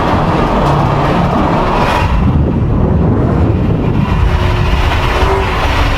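An 840-horsepower C7 Corvette's V8 running steadily while the car drives along, a deep rumble mixed with road noise and no clear revving up or down.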